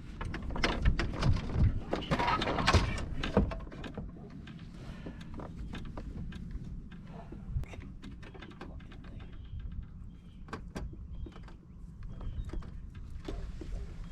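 Knocks, clicks and rattles of gear being handled aboard a fishing kayak, busiest in the first few seconds, then quieter with scattered clicks over a low rumble.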